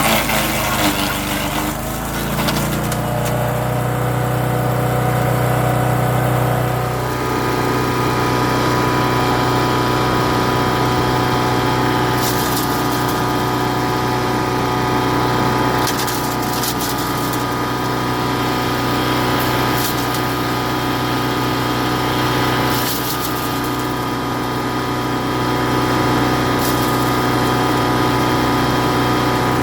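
Champion 224cc wood chipper's single-cylinder four-stroke engine running steadily at working speed while leafy green branches are fed through. Its pitch wavers briefly about a second in, then holds, with a few short sharp snaps later on.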